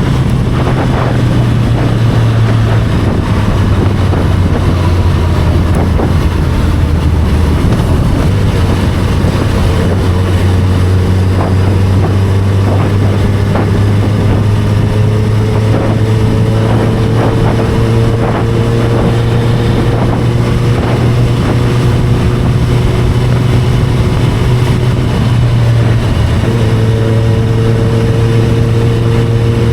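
Inline-four sport motorcycle engine running steadily at cruising revs on the move, with wind rushing over the microphone. Its pitch rises slowly through the middle as the bike gathers speed.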